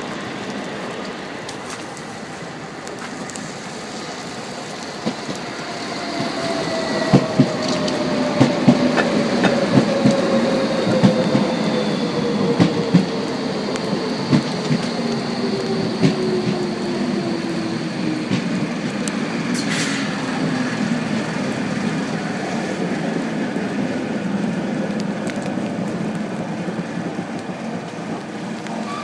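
Docklands Light Railway train pulling in and braking to a stop: its motor whine falls slowly in pitch over about fifteen seconds, with a run of clicks from the wheels over the rails in the first part, then the stopped train hums steadily.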